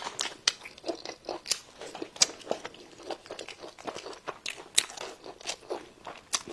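Close-miked chewing of crunchy food: a run of sharp, irregular crunches, roughly two a second, with softer wet mouth sounds between bites.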